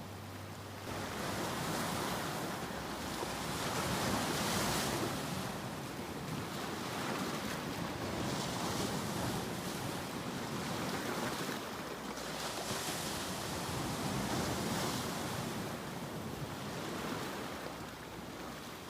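Ocean waves breaking and washing in, the surf swelling and fading several times, loudest about a quarter of the way in.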